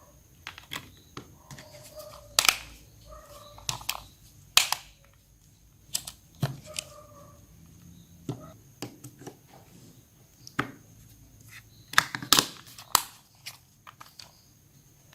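Sharp clicks and taps of small tools and plastic phone parts being handled at a workbench, irregular, with a few louder snaps. Short faint squeaks are heard now and then in the first half.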